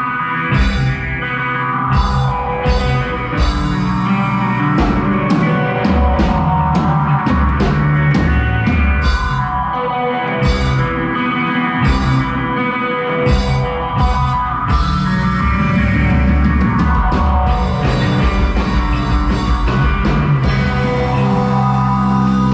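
A live rock band playing, with electric guitar and a drum kit keeping a steady beat.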